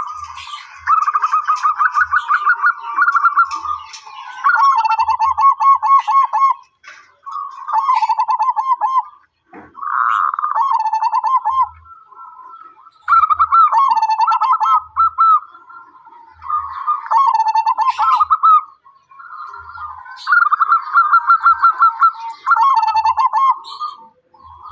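Zebra dove (perkutut) singing: repeated bouts of rapid, pulsed cooing notes, each bout a second or two long, with short pauses between them.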